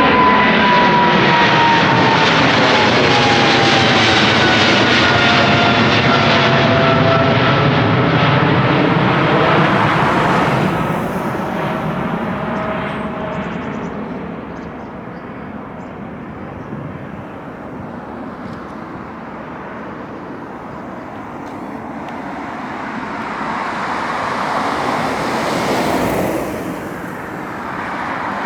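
Widebody jet airliner climbing out low overhead on takeoff: loud jet engine noise with a whine that slides down in pitch as it passes, then fading away over about five seconds. The engine noise swells again near the end.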